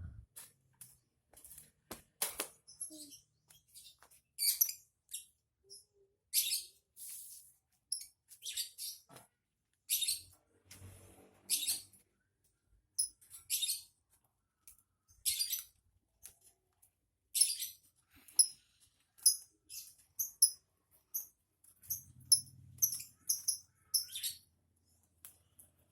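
Small cage bird giving short, sharp, high-pitched chirps, singly and in quick runs, with gaps of about a second between bouts.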